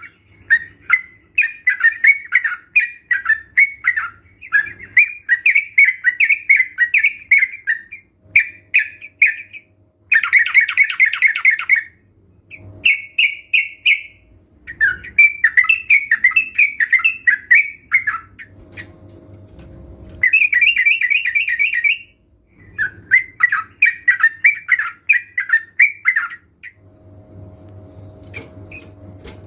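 A group of sooty-headed bulbuls calling in bursts of quick chirping notes, phrase after phrase with short pauses, with a couple of denser, harsher chattering bouts.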